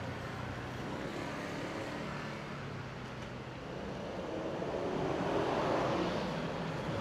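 Road traffic: a motor vehicle passes, growing louder to a peak about five to six seconds in and then easing off, over a steady background hum of traffic.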